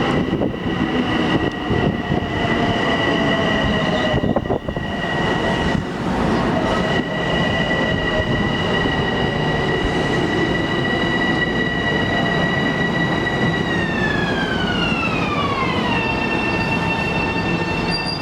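LIRR M7 electric train running and slowing, with rail noise under a steady high whine from its propulsion. Near the end the whine falls smoothly in pitch for a couple of seconds as the train comes to a stop, then holds at a lower pitch.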